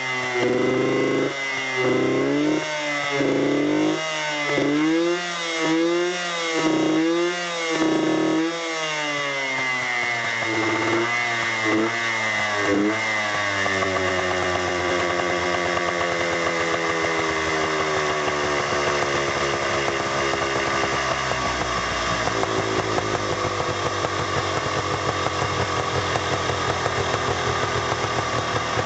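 Yamaha TY250R's single-cylinder two-stroke engine blipped repeatedly, about once a second, for the first dozen seconds, then left to settle into a steady idle whose pitch slowly drops.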